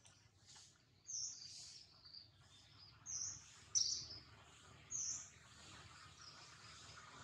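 Birds chirping: a handful of short, high calls, the clearest about a second in and then near three, four and five seconds, over faint outdoor background.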